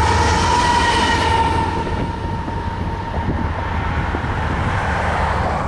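A train rolling along the track: steady rail noise over a low rumble, with a ringing tone that fades away in the first two seconds.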